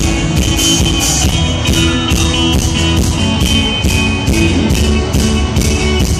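Live country-rock band playing a song's instrumental intro: guitars over a steady drum beat of about three hits a second, with no singing yet.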